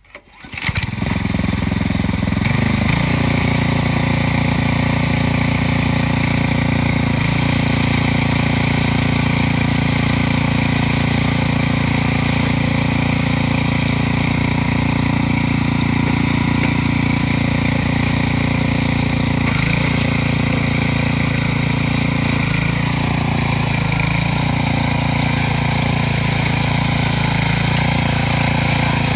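Single-cylinder Harbor Freight Predator engine on a Troy-Bilt Pony rototiller starting about half a second in, then running steadily and loudly at speed.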